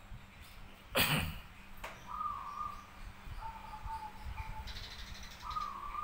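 Birds calling: a few short, level whistled notes and a brief buzzy chirp. About a second in there is one loud, sharp sound that is the loudest thing heard.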